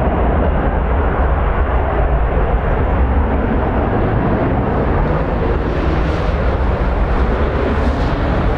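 Strong wind buffeting the microphone: a loud, steady, heavy rumble with hiss above it.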